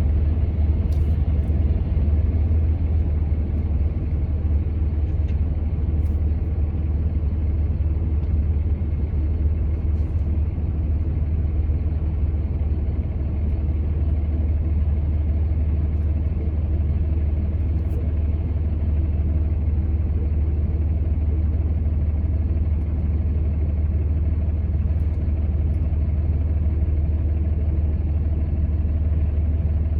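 Steady low rumble of a vehicle driving, with no change in pace, and a few faint ticks.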